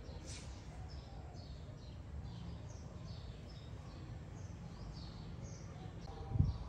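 Small birds chirping, short repeated calls, over a steady low background rumble. A louder low thump comes near the end.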